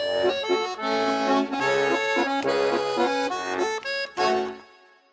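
Accordion playing the instrumental close of a folk song: a quick run of sustained notes and chords, ending on a final chord that dies away about four and a half seconds in.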